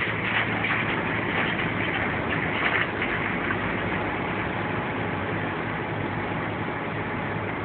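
A vehicle engine idling steadily under a constant hiss, a little louder in the first three seconds.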